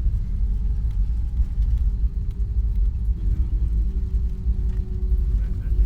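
Airliner heard from inside the passenger cabin during the landing roll: a steady low rumble from the wheels and airframe, with a faint steady engine whine over it.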